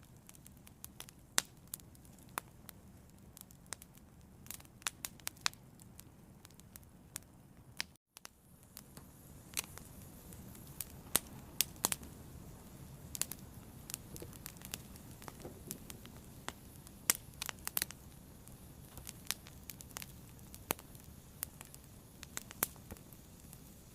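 Fire crackling: irregular sharp pops and snaps over a low steady background, with a brief dropout about eight seconds in.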